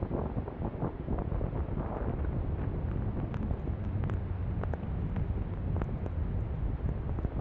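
Wind buffeting the microphone in a snowstorm: a steady low rumble with scattered small clicks.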